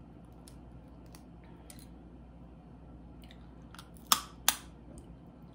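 Boiled crawfish shells cracking and snapping as they are broken open and peeled, with small scattered clicks and two loud sharp cracks about four seconds in, half a second apart.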